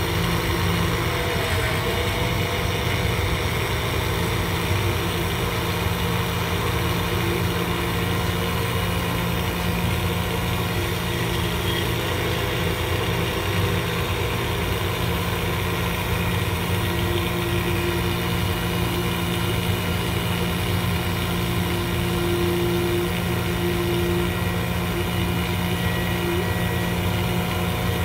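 Car engine running steadily, a constant low hum with no revving.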